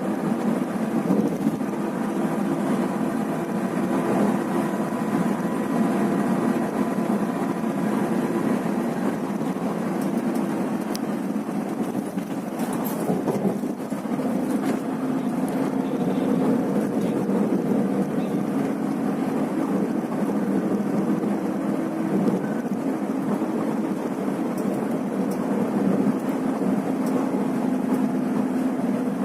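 Scania coach running at road speed: a steady engine drone mixed with road and wind noise. The engine's humming note shifts about halfway through.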